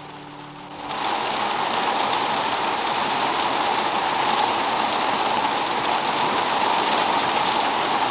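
Heavy rain falling, a steady hiss that starts about a second in.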